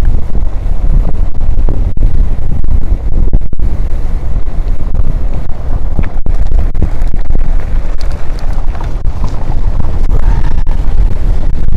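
Loud wind buffeting the microphone while riding a mountain bike into a headwind: a continuous low rumbling rush that flutters constantly.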